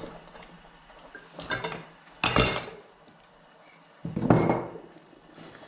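Kitchen dishes and cutlery clattering: three separate clatters about a second and a half, two and four seconds in, the last two the loudest.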